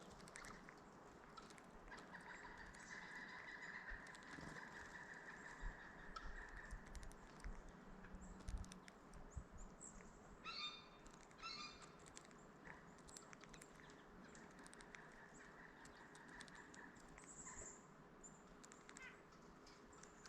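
Faint wild birds calling, with two harsh calls about a second apart near the middle.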